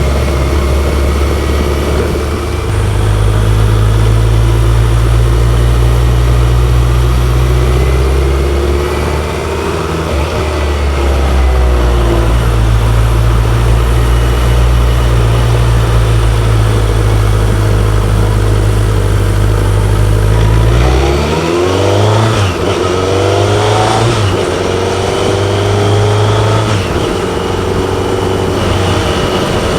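BMW K1100LT's inline-four engine running under way, holding steady revs for long stretches, with revs dropping and climbing again twice, around 9 seconds in and around 21 seconds in, as with gear changes and re-acceleration.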